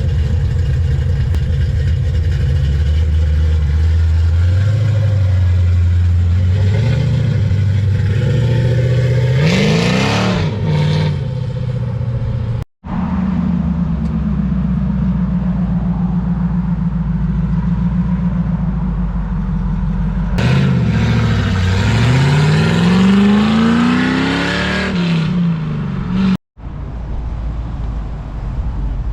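Car engines running loudly and revving as cars pull away and pass. Twice the engine note climbs hard under acceleration, the second time in a long rising pull, and the sound cuts off sharply twice between clips.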